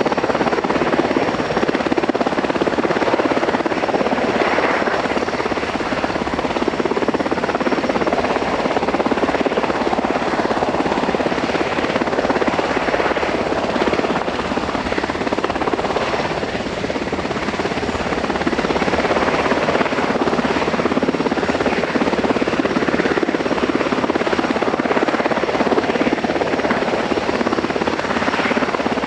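US Coast Guard MH-60T Jayhawk helicopter's rotors and twin turboshaft engines running steadily, close and loud.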